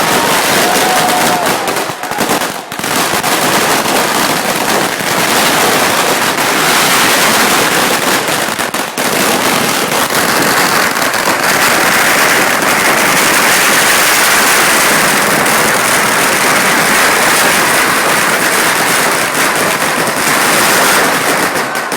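A long, continuous rattle of firecrackers and bangers, dense cracks and bangs going off without a break for about twenty seconds, stopping suddenly near the end.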